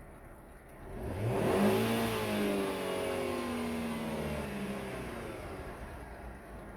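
Alfa Romeo 147 2.0 Twin Spark four-cylinder engine (AR32310) being test-run: about a second in it is revved once, climbing quickly, and the revs then fall slowly back down.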